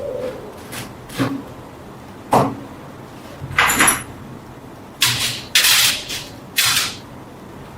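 Hand work in a workshop: about seven short scrapes and knocks, separated by brief pauses. The longer strokes come in the middle and in the second half.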